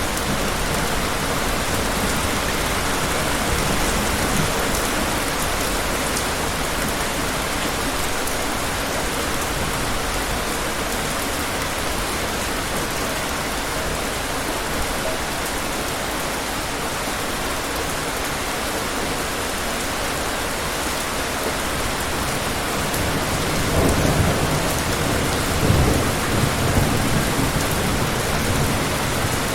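Steady heavy rain falling, with distant thunder rumbling twice near the end.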